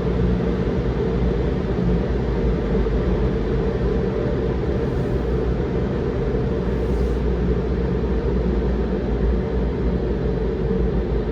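Steady rushing rumble of automatic car wash machinery, unbroken throughout.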